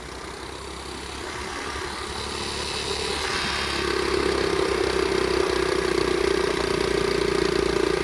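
Flywing pit bike's small single-cylinder engine running while riding, growing louder over the first few seconds and then holding a steady drone.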